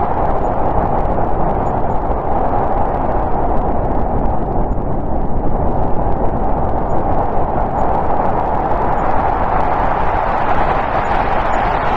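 Snowstorm wind blowing steadily, with a hollow howl that eases a little in the middle and swells again near the end.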